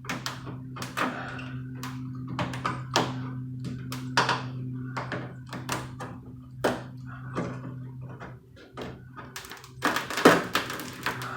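Repeated knocks, scrapes and cracks as old, dry and brittle rubber weather strip is pried and pulled out of a truck door's window channel, over a steady low hum.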